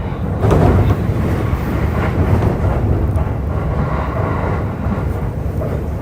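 Running sound inside a JR East E531 series electric train: a steady low rumble of wheels on rail, with a few knocks and a louder bump about half a second in.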